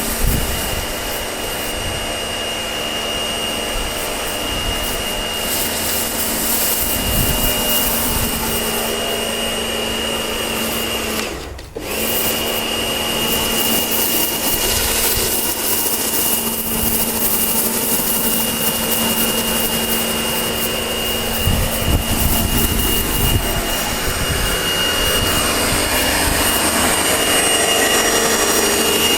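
Kärcher pressure washer running with its patio-cleaner attachment spraying onto paving: a steady motor hum with a high whine over a hiss of water. The sound cuts out briefly about eleven seconds in, then starts again.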